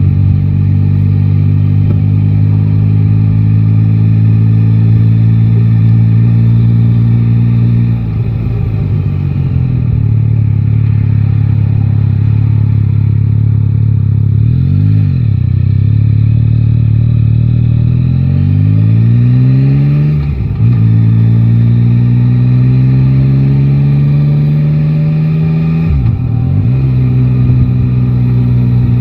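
Yamaha Tracer 9 GT's inline three-cylinder engine running under way in city traffic. The note holds steady, drops about eight seconds in, then climbs as the bike accelerates, with short breaks in the note at gear changes about two-thirds of the way through and near the end.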